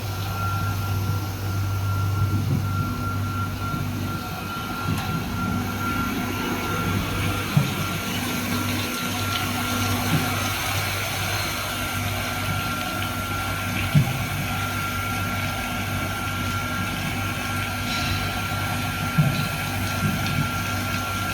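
Corn washing machine running: a steady motor hum with a thin constant whine over the noise of water. A few sharp knocks come through, about a third of the way in, midway and near the end.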